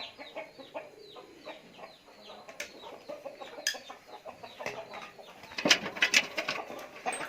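Chickens clucking, a quick series of short calls that drop in pitch. Near the end comes a clatter of sharp knocks.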